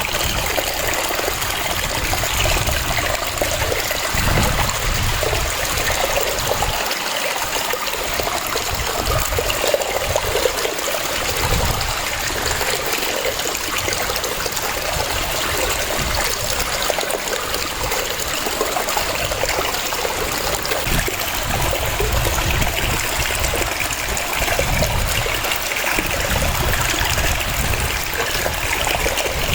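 Waterfall: water splashing and rushing steadily, with a gently shifting low rumble beneath.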